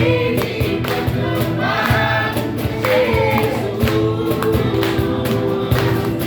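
Gospel worship song: a choir singing over a band with a steady beat.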